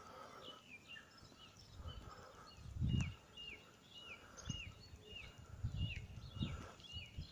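A songbird repeating short, high, downward-slurred whistled notes about twice a second, with a few low thumps on the microphone, the loudest about three seconds in.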